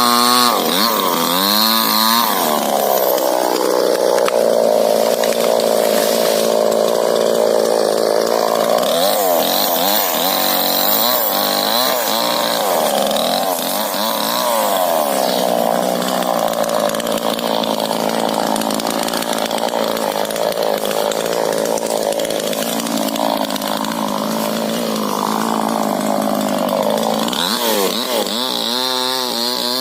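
Chainsaw cutting through a rubber tree trunk: the engine runs at high revs, bogs down to a lower, rougher pitch as the chain bites into the wood about two seconds in, holds under load through the cut, and revs freely back up near the end.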